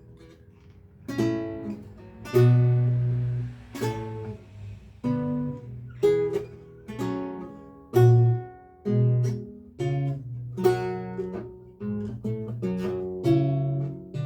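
Lute played solo: a recercar picked out as single plucked notes and chords, each ringing and dying away. The playing starts again after a brief pause about a second in.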